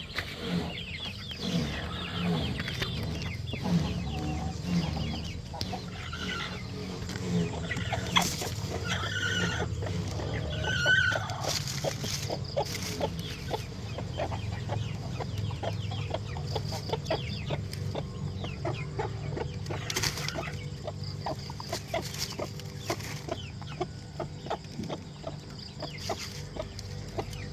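Chickens clucking, with many short clicks and a few brief higher chirps scattered through, over a steady low hum.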